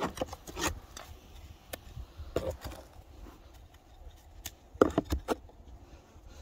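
Knocking and scraping on a wooden beehive, the sound of the hive entrance being cleared of snow. Scattered sharp knocks, with a louder cluster about five seconds in.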